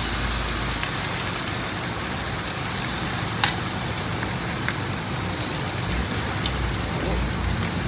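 Kimchi pancake (kimchi jeon) batter sizzling steadily in plenty of hot oil in a frying pan, with scattered sharp crackles and one louder pop about three and a half seconds in.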